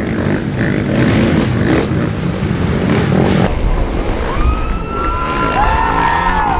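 Cartoon motorbike engines running over a dense rushing noise, then from about four seconds in several high whining tones that glide up and down.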